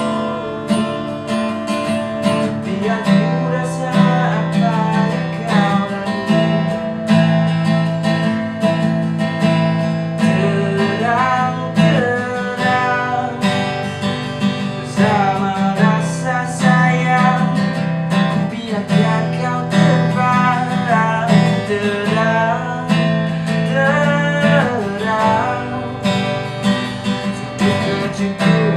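A song played on strummed acoustic guitar, with a voice singing a melody over it.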